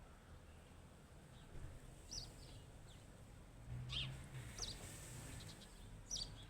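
A few faint, short bird chirps, each falling quickly in pitch, spaced a second or two apart, over a low background rumble.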